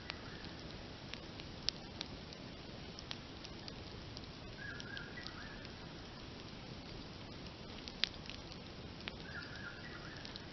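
Wood campfire crackling steadily with scattered sharp pops, two of them louder, one near the start and one about three quarters through. A short animal call sounds near the start, in the middle and near the end.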